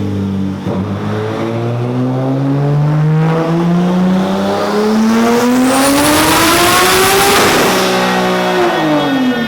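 Big-turbo Toyota Supra's inline-six engine making a full-throttle dyno pull. Its pitch climbs steadily for about seven and a half seconds as a rising hiss builds, then falls as the throttle closes near the end.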